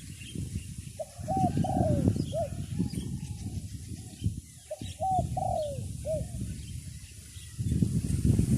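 A dove cooing in short runs of quick arched notes, several times, with heavy wind buffeting the microphone.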